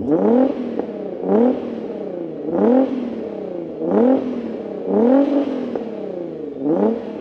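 Tuned 1,000 bhp Nissan GT-R R35's twin-turbo 3.8-litre V6 being free-revved while standing still: six quick throttle blips, each climbing sharply in pitch and dropping back to idle, about one every second and a quarter.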